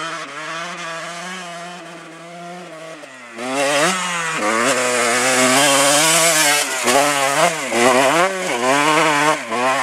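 Dirt bike engine climbing a hill: steady at first, then suddenly louder about three and a half seconds in. From there it revs up and down again and again as the throttle is worked on the climb.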